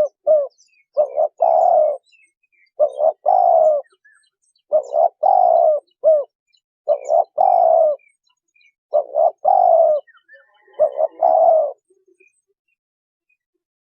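Spotted dove cooing: a repeated phrase of two short coos and a longer falling coo, given about every two seconds. The calling stops a couple of seconds before the end.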